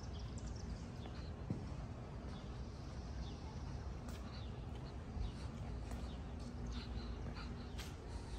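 Outdoor ambience: small birds chirping off and on over a low, steady rumble.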